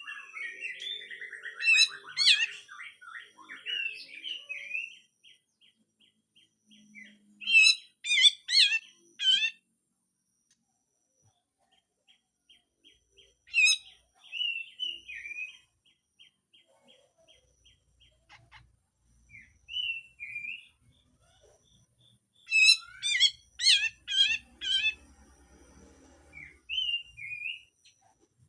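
Cucak jenggot (grey-cheeked bulbul) singing its harsh song: bursts of loud, rasping, sweeping notes alternating with fast runs of repeated chattering notes, broken by short pauses.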